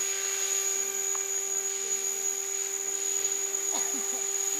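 A radio-controlled model helicopter's motor and rotor running with a steady high whine. Faint voices can be heard about four seconds in.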